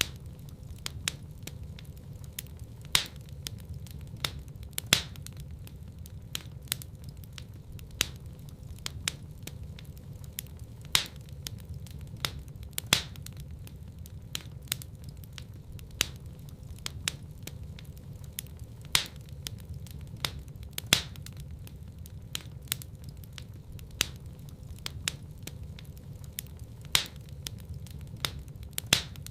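Wood fire burning in a fireplace, with a steady low rumble of flame under constant crackling and frequent sharp pops.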